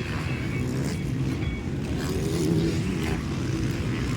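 Motocross dirt bikes racing on the track, their engines making a steady low drone.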